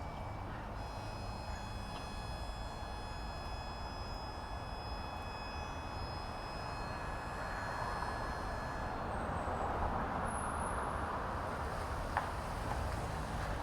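Steady outdoor background noise, a low rumble like distant traffic. A high steady whine sits over it from about a second in until about nine seconds in, and there is a single faint click near the end.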